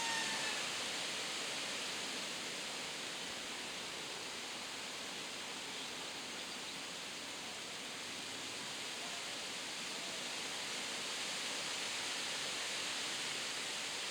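Steady rushing outdoor noise with no clear pattern, and a short falling call, faint and high, right at the start.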